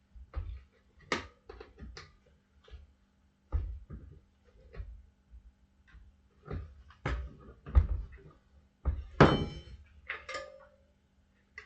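Irregular knocks, scrapes and clanks of tire irons levering a dirt bike tire over its rim, with a louder clank that rings briefly about nine seconds in.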